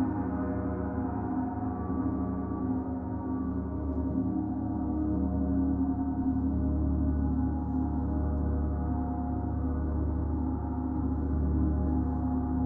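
Gong played in a continuous sustained wash: a dense drone of many overlapping tones that swells and ebbs gently, with no distinct strikes.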